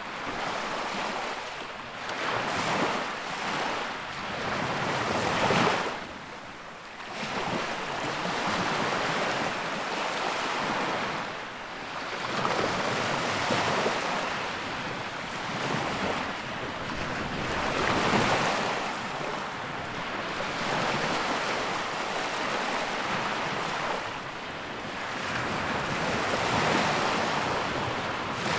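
Sea waves breaking and washing in, a continuous rushing that swells and falls back every few seconds.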